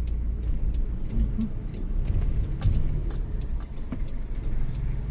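Motor vehicle running in slow traffic: a steady low engine and road rumble, with light ticking about three times a second.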